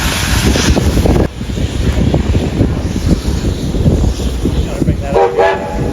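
Wind buffeting the microphone with a heavy rumble, easing a little just over a second in, and a brief pitched sound about five seconds in.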